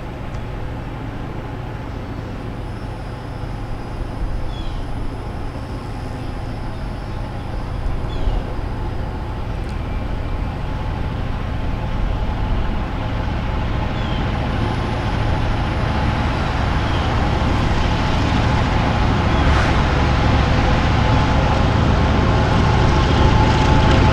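EMD diesel locomotive engine running with a deep, steady rumble, growing gradually louder as it draws closer.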